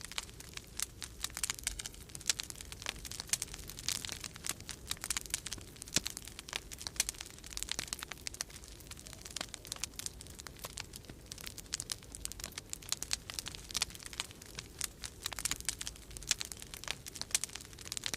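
Wood fire crackling in a fireplace, with dense, irregular pops and snaps throughout. Beneath it is a low, steady rumble of storm wind.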